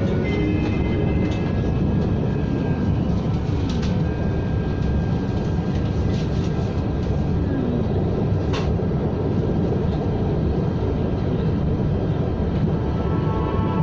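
KTM ETS electric train running at steady speed: a constant rumble, with a single sharp click about eight and a half seconds in.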